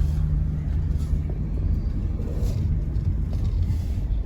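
Car running at low speed while reversing into a parking space, heard from inside the cabin: a steady low engine and road rumble, with a low hum that fades out about three seconds in.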